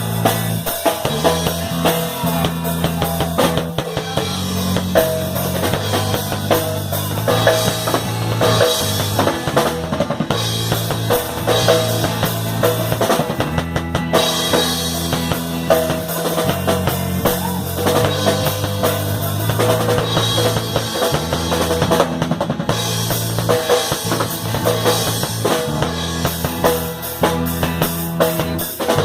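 A live band playing, driven by a drum kit with kick and snare, over held bass notes that change every second or two.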